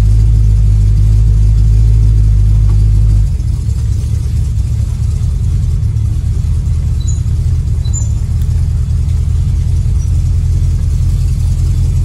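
The 1936 Chevy coupe's small-block Chevy 350 V8 running, heard while driving. It holds a steady low hum until about three seconds in, then changes abruptly to a rougher, uneven rumble.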